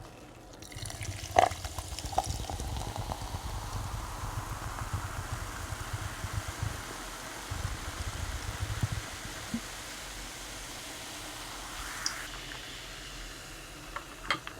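Liquid pouring steadily into a container, its pitch rising over a few seconds as it fills, with a sharp click about a second and a half in.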